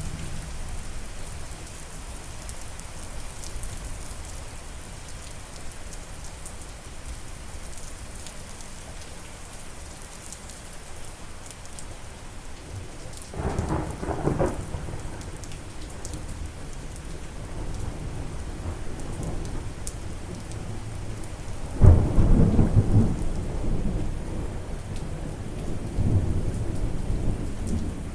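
Steady rain with thunder: a short rumble about halfway through, then a louder thunderclap about two-thirds of the way in that rolls on as a long rumble toward the end.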